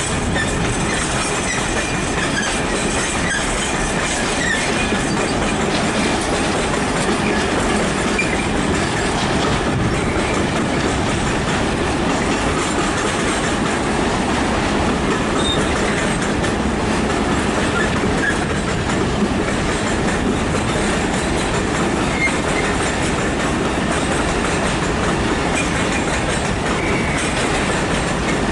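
Long freight train of wagons hauled by a Class 66 diesel rolling steadily past, with the wheels clattering over rail joints and faint wheel squeal now and then.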